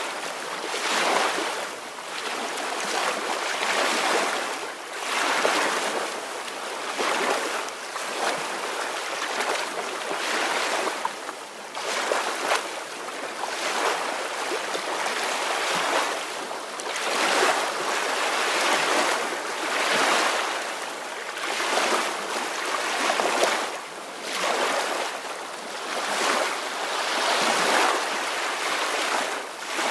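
Soft ocean waves washing in, the hiss of water swelling and falling every second or two.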